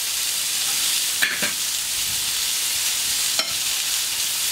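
Celery cubes and mushrooms sizzling on a hard-chrome steel gas plancha, a steady frying hiss. Two short clicks come through it, about a second in and again near the end.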